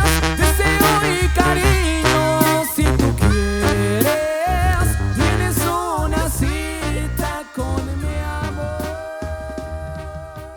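Mexican banda music, instrumental: wind instruments playing held, wavering melody notes over a heavy, steady bass line. It grows gradually quieter toward the end as the song closes.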